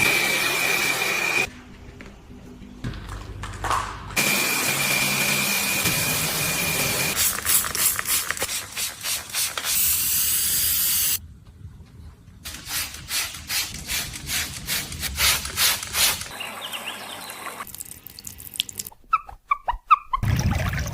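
A quick-cut sequence of car-detailing and bodywork sounds that changes abruptly every few seconds. It moves between a steady hiss, at times with a thin high whine over it, and runs of quick repeated rubbing strokes, with a few short sharp clicks near the end.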